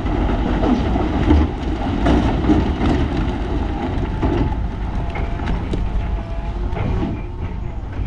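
Heavy earthmoving machinery working: a diesel engine running with a steady low rumble, and rattling and clanking throughout.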